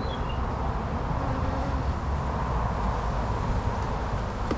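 A disturbed colony of honey bees buzzing steadily around an opened hive, with a low rumble underneath.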